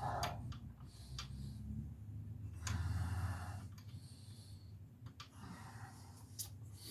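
A person breathing heavily while working, with several sharp clicks and taps of tools scattered between the breaths.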